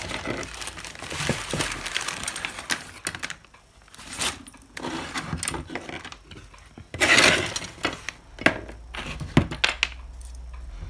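Hot air gun handle and its wiring handled and taken apart on a workbench: irregular clicks, rattles and scraping of small plastic and metal parts, with a louder clatter about seven seconds in.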